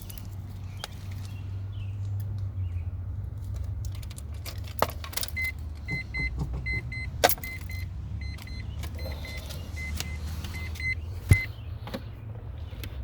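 A Mazda RX-7's warning chime beeping in short high beeps, on and off for about six seconds from about five seconds in, while the car is readied to start. Keys jangle, several sharp clicks sound, and a steady low hum runs underneath.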